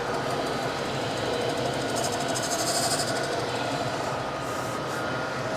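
Gallmeyer & Livingston No. 55 surface grinder running: a steady machine hum from the spindle motor and spinning wheel, with a brief hiss about two seconds in.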